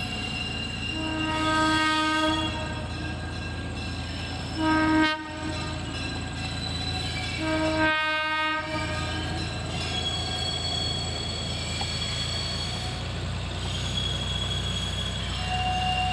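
A locomotive sounds three blasts of its horn or whistle as it approaches: a longer blast about a second in, a short one around four and a half seconds, and another near eight seconds. A steady low rumble runs underneath.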